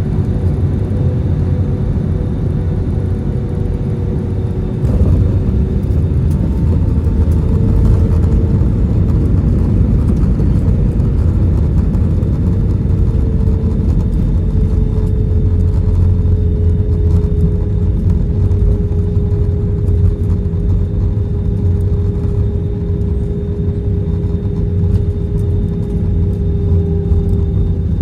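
Airbus A320 cabin noise from a seat by the wing: a steady, loud rumble with an engine tone on top. About five seconds in it gets louder, and over the second half the engine tone slowly falls in pitch.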